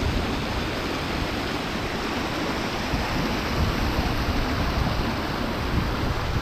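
Small moorland waterfall, a steady rush of falling water.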